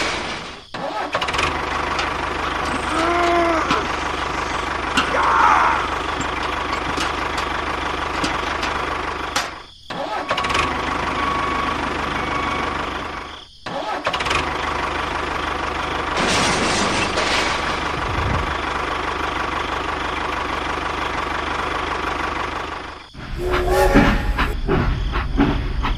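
A motor running steadily, heard in several stretches broken by short gaps.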